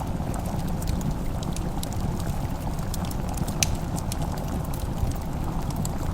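Fireplace crackling, with scattered sharp pops, the strongest about three and a half seconds in, over a steady low rumble.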